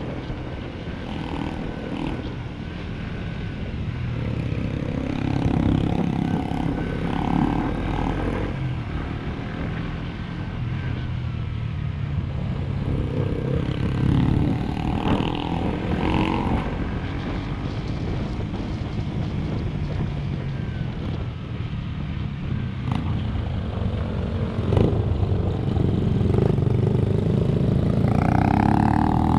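Motorcycle engine running on the move, its pitch shifting with the throttle and climbing near the end as it revs up.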